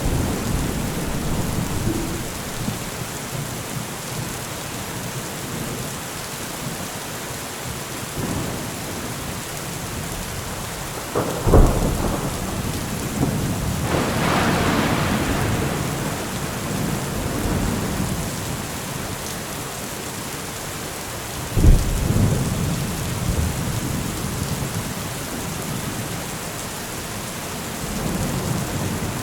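Steady rain of a thunderstorm, with thunder rumbling through it. There are two sharp, close cracks about a third and two thirds of the way in, and a longer rolling rumble in between.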